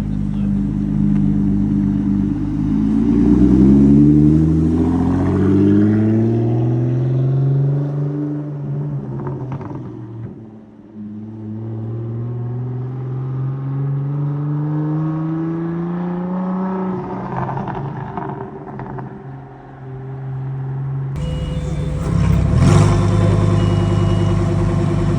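Car engine revving up, its pitch climbing steadily, falling away about ten seconds in, then climbing again. Near the end the sound changes abruptly to an engine running steadily.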